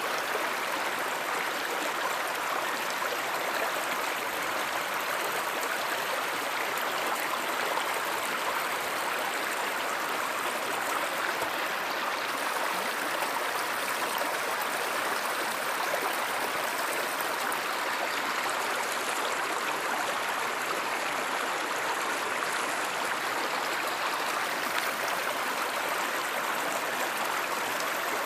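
Stream water flowing steadily, an even rushing and gurgling with no breaks.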